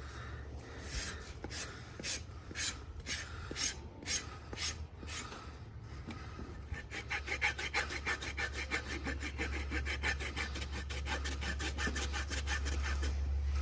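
Farrier's rasp filing the wall of a horse's overgrown, dry hoof to dress its shape. The strokes come about two a second at first, then faster and closer together from about seven seconds in.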